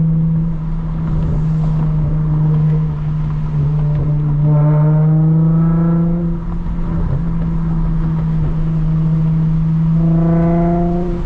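Lexus IS350's 3.5-litre V6 with a cat-less mid-pipe and muffler-delete exhaust, droning steadily while cruising. Its note swells and rises in pitch twice as it pulls harder, about four and a half seconds in and again near the end.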